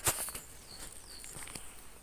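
Outdoor nature ambience: a few short bird chirps over scattered rustles and clicks, like footsteps on the ground. The sharpest click comes right at the start.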